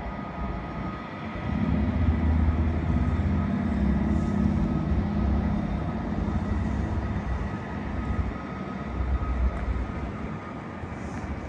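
A train running at the station: a low rumble with faint steady tones above it, swelling about a second and a half in and easing off near the end.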